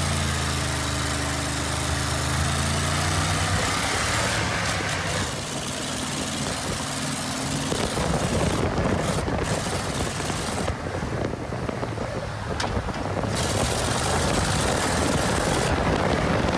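A vehicle engine running steadily, with a loud rushing noise that swells over it after about four seconds and covers it.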